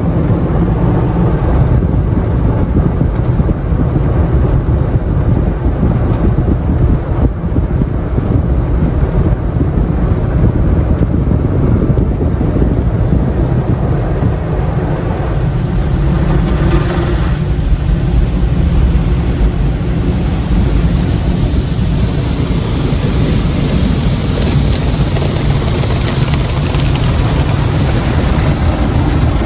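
Automatic tunnel car wash heard from inside the car: loud, steady noise of water jets and wash machinery working over the bodywork. It grows hissier about two-thirds of the way through.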